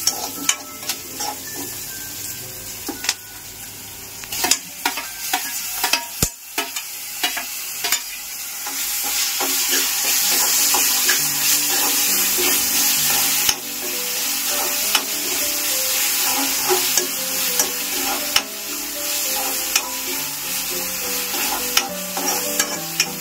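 Chopped onion, green chillies and coriander sizzling in hot oil in a metal kadai, with a metal spoon stirring and scraping against the pan in frequent sharp clicks. The sizzle grows louder about eight seconds in.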